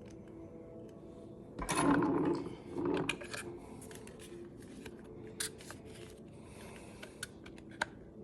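Small clicks and scraping of parts being handled as a used AR-15 stock is worked onto the rifle's lower receiver. There is a louder scuffing burst about two seconds in and a shorter one a second later, then scattered sharp clicks.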